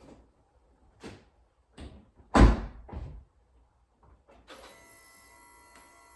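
A few knocks and a loud door thud, then from about four and a half seconds a steady electrical hum with several high, even tones.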